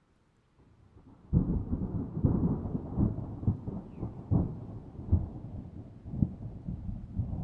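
Thunder: a faint rumble swells, then breaks into a loud clap about a second in and rolls on with repeated cracks, slowly fading.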